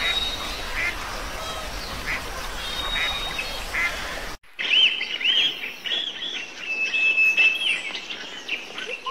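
Short waterfowl calls, about one a second, over a steady hiss. About four and a half seconds in, the sound cuts to birds singing: a run of looping whistled notes with one long held note.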